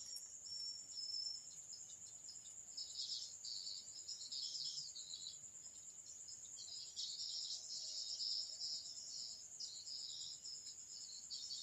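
Insects chirping in the background: a continuous high, thin drone with irregular bursts of chirping over it.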